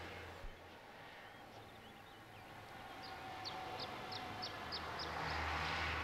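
A faint low rumble, with a small bird chirping: a few weak chirps early on, then about halfway through a run of about seven short, high, downward chirps, some three a second.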